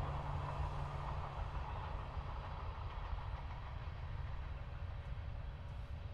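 Norfolk Southern freight train rolling past with a steady low rumble that slowly fades as it moves away.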